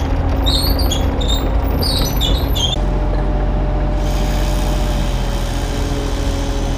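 Kubota U35-3 mini excavator running steadily at work, its diesel engine humming under a hydraulic whine that sets in about three seconds in. A run of short high squeaks sounds over it in the first two and a half seconds.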